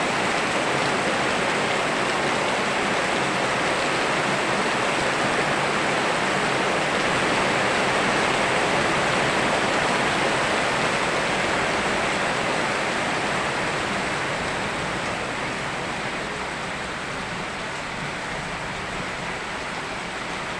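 Steady rushing of heavy rain mixed with a flowing river, an even wash of water noise with no separate drops or splashes standing out. It grows gradually quieter over the last several seconds.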